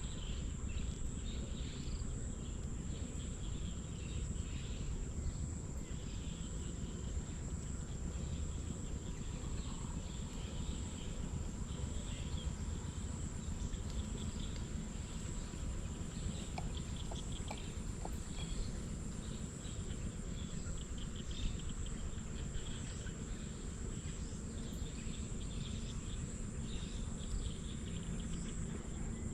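Insects trilling steadily in a high band, with scattered chirps over a constant low rumble of outdoor background noise.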